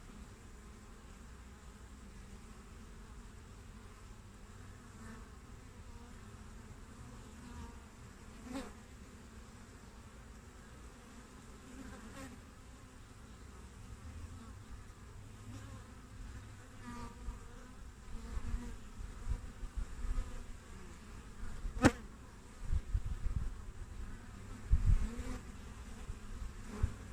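Honeybees buzzing at a hive entrance, a steady hum of many wings with individual bees flying close past now and then, their buzz swelling and fading. In the second half come a few low thumps and one sharp tick.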